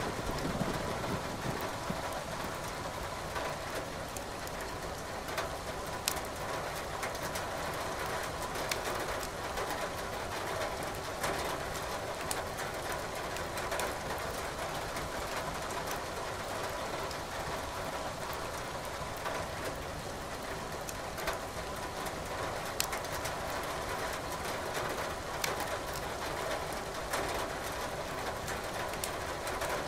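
Steady rain hiss with a wood fire crackling, sharp pops from the burning firewood every second or so.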